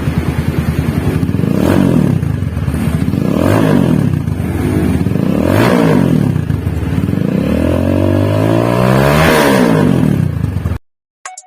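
Rusi Sigma 250 motorcycle engine breathing through a Villain aftermarket exhaust, revved up and dropping back about four times, the last rev held longer and higher, then cut off abruptly near the end.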